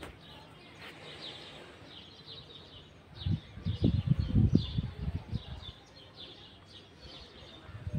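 Small birds chirping rapidly and over and over. From about three to five seconds in, a louder patch of low rumble rises under the chirping.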